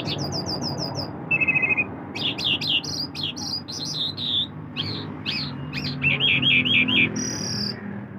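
Lark singing a continuous, varied song: fast runs of repeated notes, short steady whistles and quick falling sweeps, the phrase changing every second or so.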